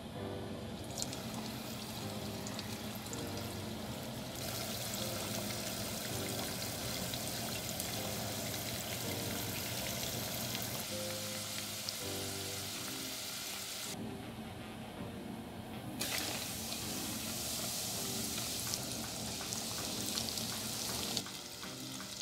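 Sweet potato wedges sizzling in hot oil in a saucepan, a steady crackling hiss over background music. The sizzle starts about a second in, as the wedges go into the oil, and drops out for a couple of seconds in the middle before returning.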